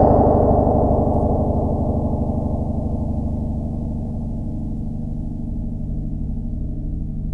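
A huge steel spring, heard through a contact mic, ringing out after being struck: a loud, gong-like metallic drone of many tones with a fast wobble, slowly fading.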